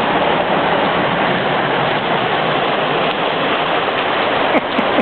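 Heavy downpour: a steady, loud hiss of rain.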